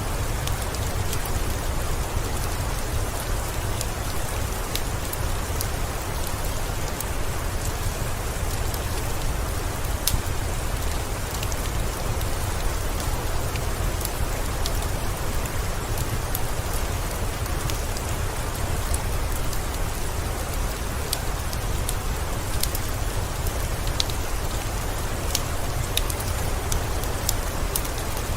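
Steady rain with a low rumble underneath, dotted with scattered sharp ticks that may be fireplace crackles mixed into the ambience.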